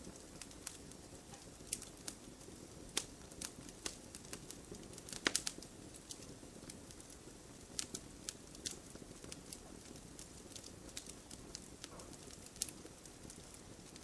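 Wood fire crackling: irregular sharp pops and snaps over a steady low rumble of burning, with a quick cluster of louder pops about five seconds in.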